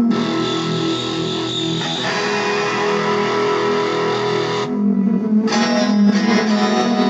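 Electric guitar played through an amplifier: sustained chords that change about two seconds in and again near five seconds in.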